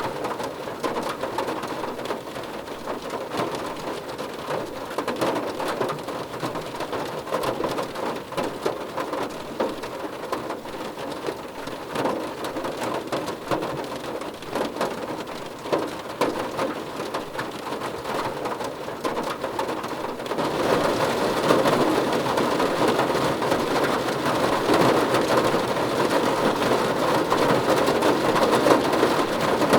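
Steady rain falling on a car roof, a dense patter of many small drop ticks; about two-thirds of the way in the rain turns heavier and louder and stays so.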